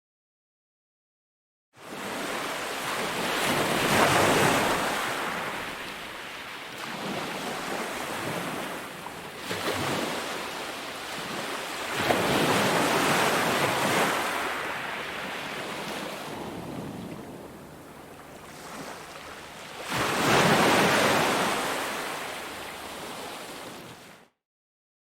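Ocean surf breaking on a beach: the wash swells and fades in three big surges, roughly eight seconds apart. The sound cuts in after a short silence at the start and cuts out just before the end.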